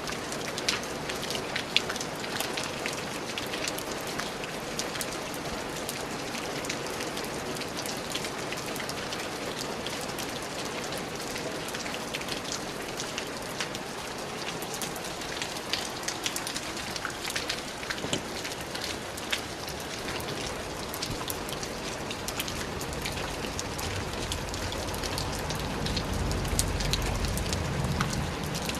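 Steady rain falling on a surface, with many close individual drops ticking through a constant hiss. A low rumble swells up beneath it near the end.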